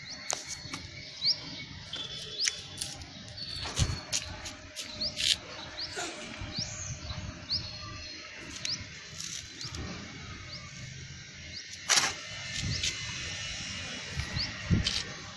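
Small birds chirping outdoors: many short, rising, repeated calls with a few held whistled notes, over scattered sharp clicks, the loudest about twelve seconds in.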